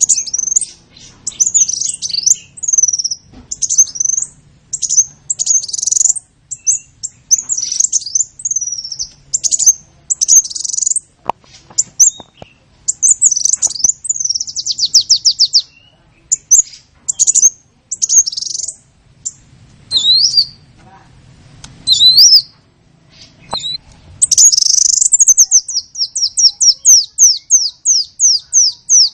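A songbird singing close up: loud, high chirps and whistles in quick phrases, with a fast run of repeated notes near the end.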